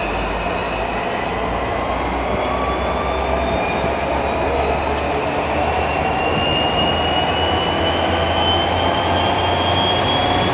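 MARC commuter train pulling out of the station, its coaches rolling past with a steady rumble and a whine that rises slowly in pitch as it picks up speed.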